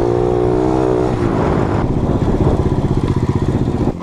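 Dirt bike engine running, holding steady revs for about a second, then dropping to a lumpy, pulsing idle.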